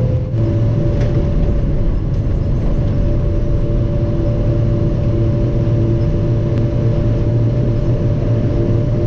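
1948 Ford F5 bus engine running steadily under way, with a steady whine over the engine.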